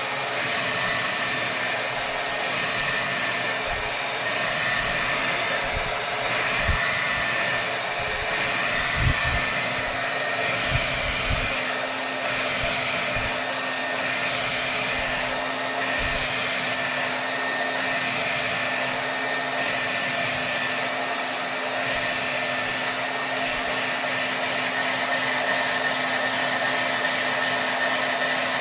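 Hair dryer blowing steadily on its highest setting, a constant rush of air with a faint motor whine. A few soft low bumps come through about a third of the way in.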